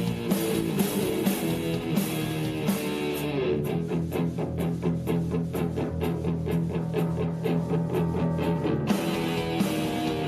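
Live progressive rock band led by electric guitar. For about five seconds in the middle the band thins out to a quick, evenly repeated run of notes, then the full sound comes back in.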